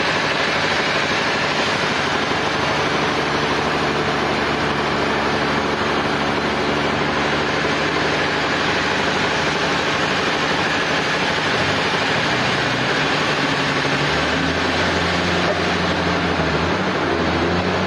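Sawmill machinery running steadily: a dense mechanical noise over a low engine hum whose pitch changes a few times in the last few seconds.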